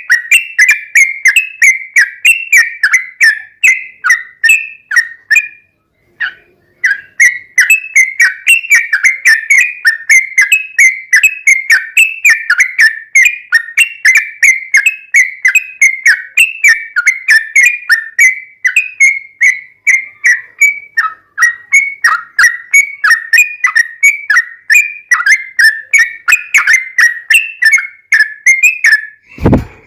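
Yellow-vented bulbul (trucukan) singing a long, unbroken run of quick, bubbly whistled notes, about three to four a second, with one short pause about six seconds in. A brief thump comes near the end.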